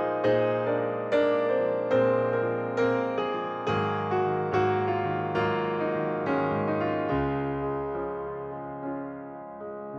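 Background piano music: a gentle, slow melody of single struck notes, settling into a held chord in the last few seconds.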